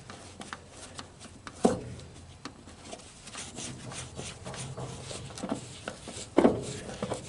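Hand tools clicking, scraping and knocking on metal and wood as a stuck fastener is worked out of a trailer, with two sharper knocks, one about a second and a half in and one near the end.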